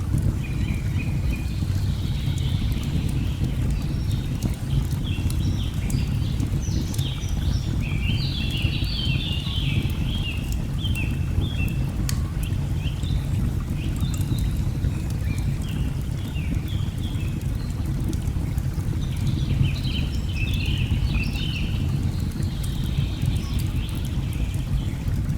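Steady low rush of falling water, with birds chirping busily through the first part and again near the end, and a few faint fire crackles.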